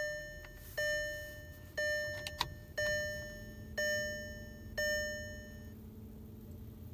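2003 VW Jetta TDI's dashboard warning chime sounding six times, about once a second, each tone fading away, with the ignition switched on before the cold diesel is cranked. A faint steady hum comes in partway through, with a couple of light clicks.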